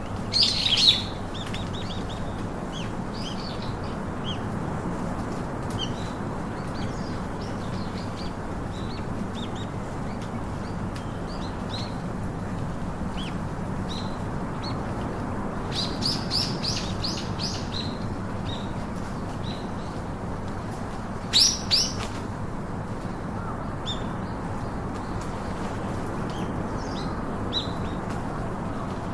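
Small birds chirping and calling: many short high chirps throughout, a loud burst of calls right at the start, a quick run of chirps about halfway through, and two loud sharp calls about two-thirds of the way in, over a steady background noise.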